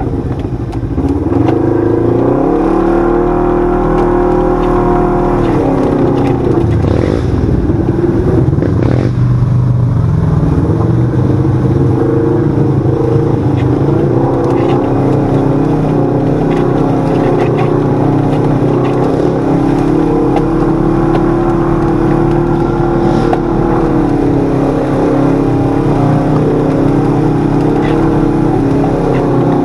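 Sport side-by-side UTV engine running under load while driving a trail, revving up about two seconds in and easing off near six seconds, then holding a steady drone with smaller rises and dips. A few sharp knocks sound around seven to nine seconds in.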